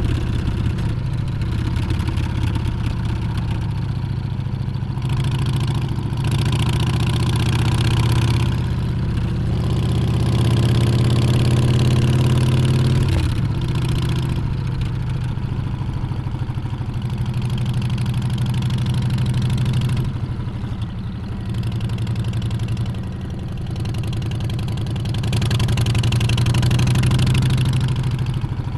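Harley-Davidson Street Bob's Milwaukee-Eight 114 V-twin running while riding. Its note climbs slowly, drops suddenly about halfway through as it changes gear, and varies with the throttle after that. Wind and road hiss swells and fades over it.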